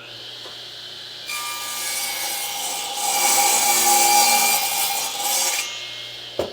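Radial arm saw running with its motor humming, the blade cutting through a wooden board from about a second in until near the end, loudest mid-cut. A single sharp knock comes near the end.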